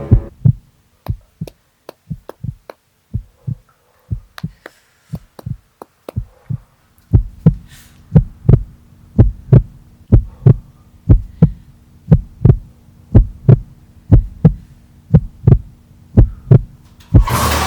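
Heartbeat sound effect: steady paired lub-dub thumps, about one pair a second, growing much louder about seven seconds in as a low steady drone joins beneath. A loud sting hits near the end.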